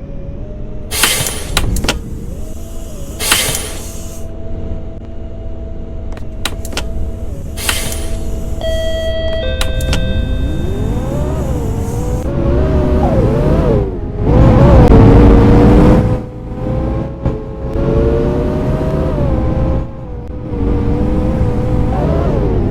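Scania K230UB city bus engine idling, with three short hisses of air and a brief electronic beep. About ten seconds in the engine picks up and the bus pulls away, its note rising and falling as it works up through the gears.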